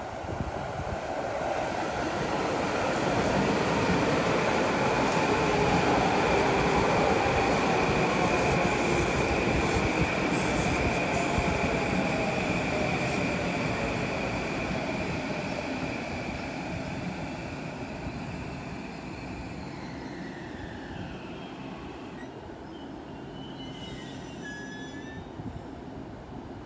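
A Metro-North M8 electric multiple-unit train passes at speed: a rushing rumble of wheels on rail under a steady high whine. The sound builds to a peak, then fades as the train draws away, and the whine drops in pitch about three-quarters of the way through.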